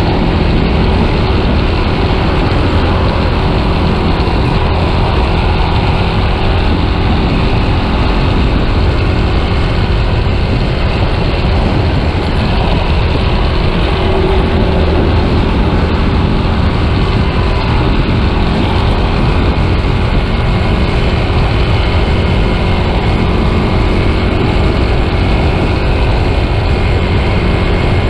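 Yamaha Scorpio motorcycle riding at a steady pace, its engine running evenly under a heavy rush of wind on the microphone.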